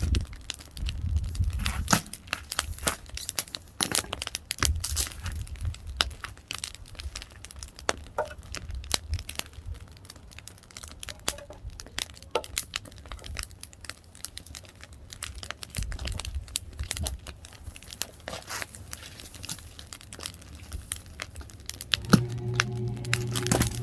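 Firewood fire crackling, with sharp pops and snaps coming irregularly throughout. Music begins near the end.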